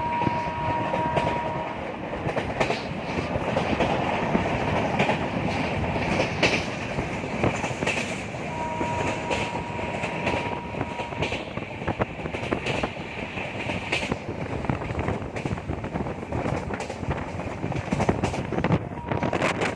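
Express passenger train running at speed, heard from on board: steady wheel-and-rail rumble with clickety-clack over rail joints. A steady two-note horn sounds at the start and again around nine seconds in.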